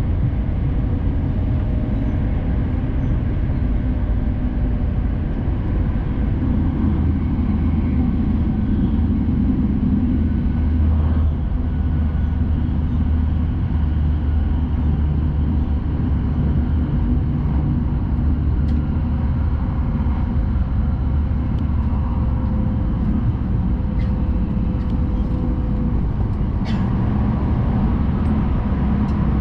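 Steady rumble inside the passenger cabin of a Hayabusa Shinkansen train running at speed, with a few faint ticks near the end.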